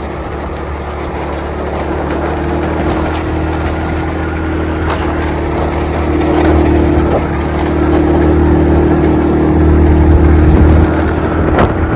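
A vehicle engine running steadily while driving, growing louder toward the end.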